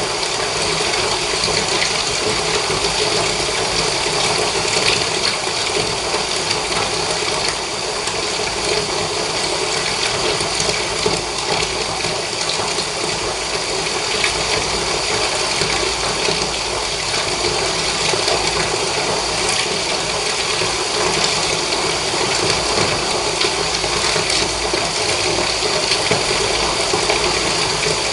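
Water running steadily from a tap into a bath, an even pouring rush.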